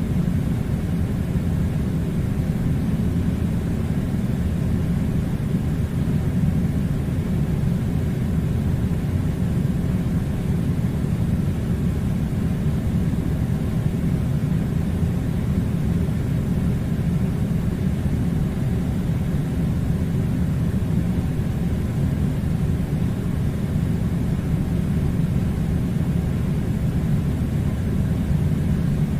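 Air conditioner running with a steady, even low rumble that does not change.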